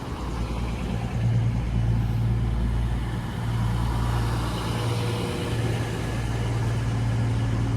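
Freight train passing through the station: a steady low diesel drone under a continuous rumble of rolling wagons.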